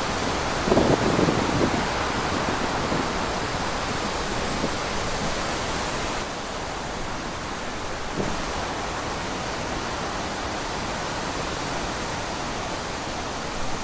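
Wind rushing steadily through trees, with a louder gust about a second in. The rush softens slightly about six seconds in.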